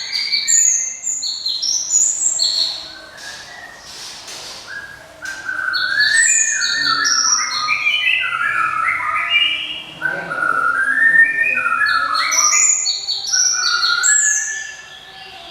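Glatik songbird singing loud, ringing phrases: rapid runs of short clear notes stepping up and down in pitch, with a brief lull a few seconds in before the song resumes.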